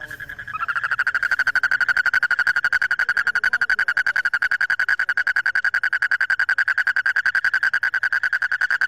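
Frog calling: one long, unbroken high-pitched trill of very rapid pulses on a steady pitch, starting about half a second in.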